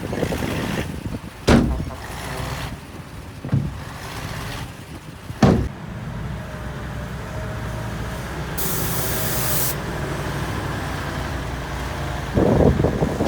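Heavy earthmoving machinery's diesel engine running, with two loud metal clanks in the first half and a smaller knock between them. A short hiss of released air comes about nine seconds in, and the engine grows louder near the end.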